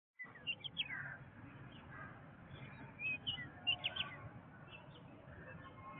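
Jungle ambience: several birds giving short chirps and quick sweeping calls over a steady low background noise, with the loudest chirps about half a second in and again around three to four seconds in.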